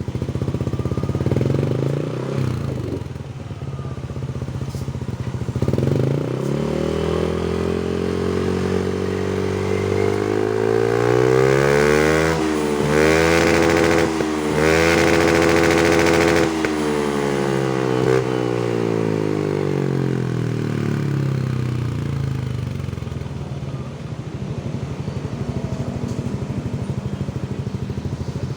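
Yamaha NMAX scooter's single-cylinder engine running through an RCG Proliner aftermarket exhaust: idling with two quick throttle blips, then revved up steadily to high revs and held there with a few brief drops, before the revs fall slowly back to idle.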